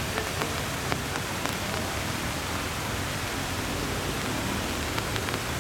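Heavy rain falling steadily, with scattered drops tapping sharply close by.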